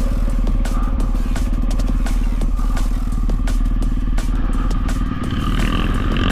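Dirt bike engine running under way, with rattling and clatter from the bike riding over the dirt.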